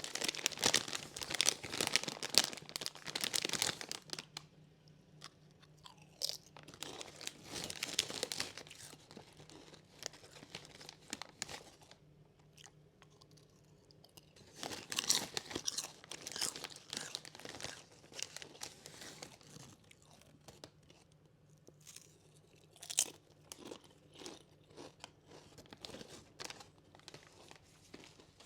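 Close-miked ASMR eating: a person biting into and chewing crunchy snacks. There are loud stretches of crunching in the first few seconds, again around a third of the way in and around the middle, with single bites and quieter chewing between them.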